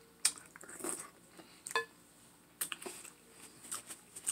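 Close-up mouth sounds of eating a sauce-covered boiled egg by hand: wet chewing and lip smacks that come as short, irregular clicks.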